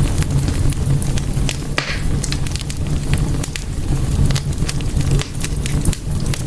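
Wood fire crackling in a fireplace: frequent irregular sharp pops and snaps over a steady low rumble of the flames, with a short hiss just under two seconds in.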